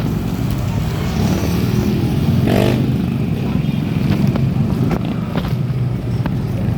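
Steady low rumble of wind and road noise on the microphone while riding a bike. A vehicle passes close by about two and a half seconds in, swelling and fading quickly.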